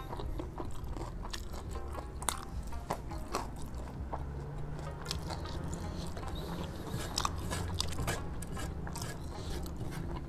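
Close-up chewing and mouth sounds of a person eating rice and fried snacks by hand, with many small clicks and the scrape of fingers gathering rice on a plate.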